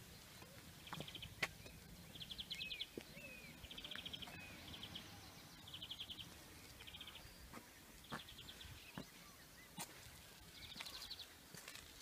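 Small birds calling outdoors: short rapid trills repeated about once a second, with a few brief sliding chirps in between. A few sharp clicks also sound.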